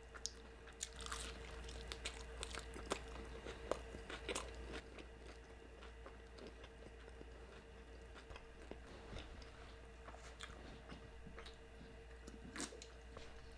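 Close-miked chewing and biting of food: soft crunches and wet mouth clicks scattered throughout, over a faint steady hum.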